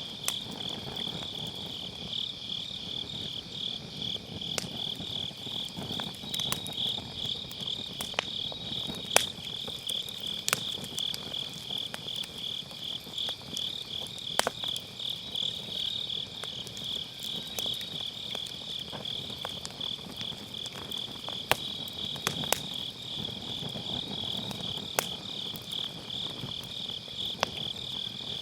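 Autumn grass insects chirping in a steady, rapid pulse without pause, while burning firewood crackles and pops in sharp snaps scattered throughout, over the low hiss of the fire.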